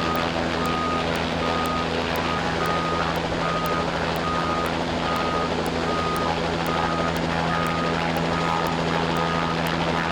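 Fire truck engine running steadily under load while its aerial ladder is worked, with a warning beeper sounding about three times every two seconds over a steady rush of noise.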